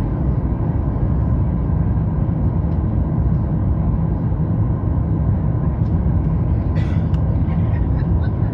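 Steady cabin noise inside a Boeing 737 MAX 8 airliner on its descent: a low, even rumble of airflow and engines with a faint steady hum above it. A brief faint crackle comes about seven seconds in.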